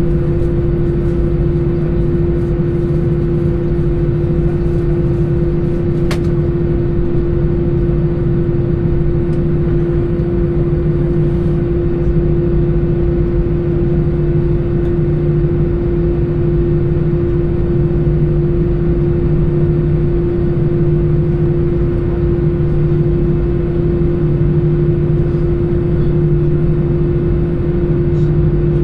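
Airbus A320 cabin noise heard from a window seat: engines and airflow making a steady rumble with a constant hum. The level does not rise or fall. A faint click sounds about six seconds in.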